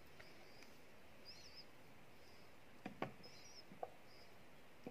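Faint chirping of a small bird, short curved calls repeating about once a second, over a near-silent room. A few soft knocks from hands working in an aluminium pot come around the middle and at the very end.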